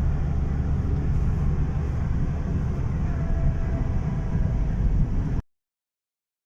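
Steady low road and engine rumble of a moving car heard from inside, cutting off abruptly to silence about five seconds in.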